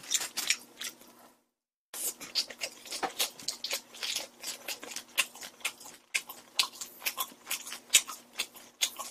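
A man chewing food close to the microphone: a rapid, irregular run of small clicks and smacks. The sound cuts out completely for about half a second near the start.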